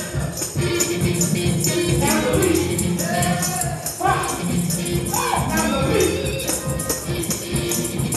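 Fast gospel praise-break music with a driving beat, tambourine and a sustained organ tone, and voices singing and shouting over it.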